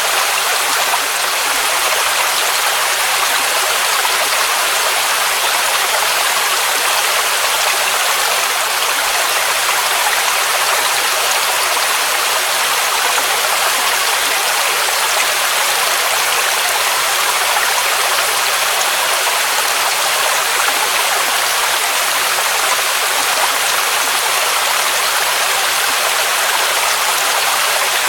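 Waterfall on a mountain cascade, water rushing steadily as an even hiss with little deep rumble.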